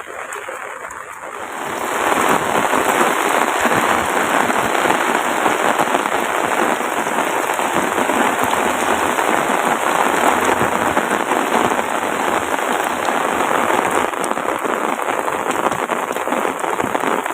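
Heavy rain pouring down in a dense, steady hiss that swells about two seconds in and then holds.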